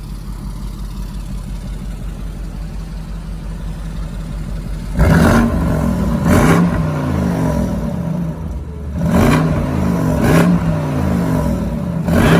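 BMW M550i's twin-turbo V8 through an AC Schnitzer exhaust in Comfort mode, idling steadily, then revved in five quick throttle blips starting about five seconds in, the pitch climbing and falling back each time.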